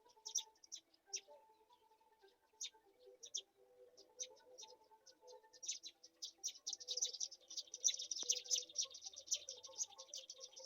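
High-pitched bird chirps, scattered at first, then a dense, rapid run of chirping about halfway through.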